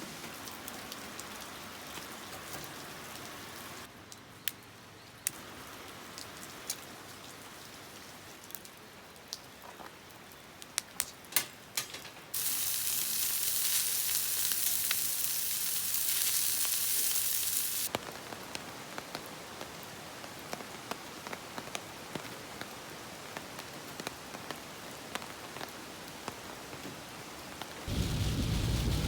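Light, steady rain falling, with individual drops ticking sharply on nearby surfaces. The rain's level jumps in abrupt steps, louder and hissier for several seconds in the middle, and a low rumble comes in near the end.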